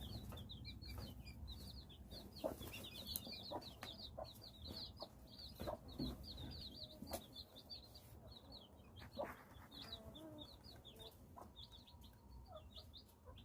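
Cheonggye chicks peeping continuously: many short, high cheeps overlapping one another, with a few sharp ticks and, about two-thirds of the way in, a few soft, lower calls.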